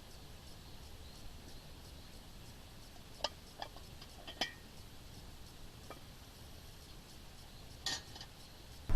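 A few light clicks and clinks, one with a brief metallic ring, over a quiet background.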